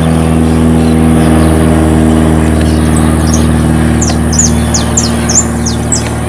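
Single-engine propeller plane flying over, a steady drone with a strong low engine note. Small birds chirp in quick falling notes from about halfway through.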